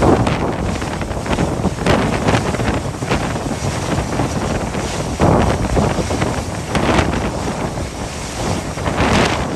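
Gale-force wind buffeting the microphone in irregular gusts, over a dense rush of wind and sea.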